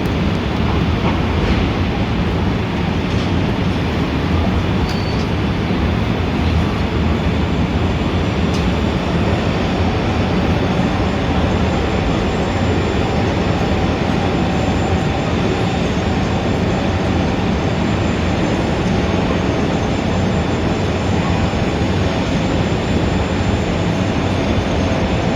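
Dense city street traffic ambience: a steady, even rumble of engines and tyres, heavy in the low end, with no single vehicle standing out.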